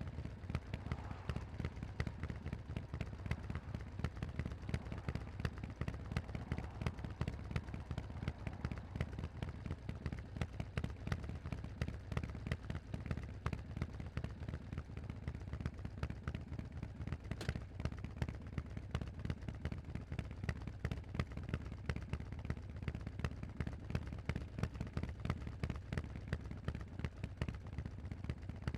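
Harley-Davidson Forty-Eight's air-cooled 1200 cc V-twin running through Vance & Hines aftermarket exhausts: a steady, deep train of rapid exhaust pulses.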